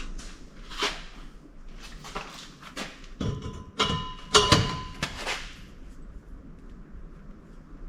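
Scattered knocks and clanks of steel exhaust pipe being handled and worked, with a cluster of louder hits and a brief metallic ring about four seconds in.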